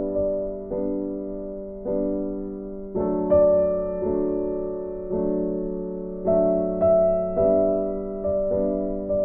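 Background music: slow, gentle piano chords, a new chord struck about once a second and left to ring out.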